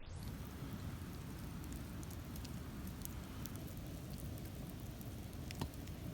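Campfire burning: a steady low rush of flames with scattered sharp crackles and pops, and one louder pop near the end.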